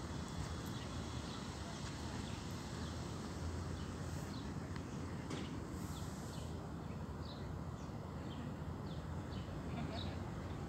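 Small birds chirping: short, high, falling calls scattered throughout, over a steady low rumble.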